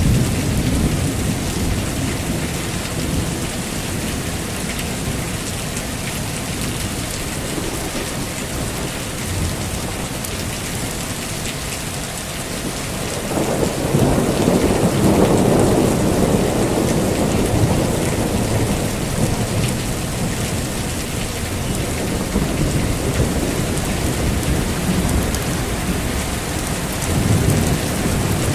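Heavy rain falling steadily, with a long roll of thunder swelling up about halfway through and slowly dying away, and a smaller rumble near the end.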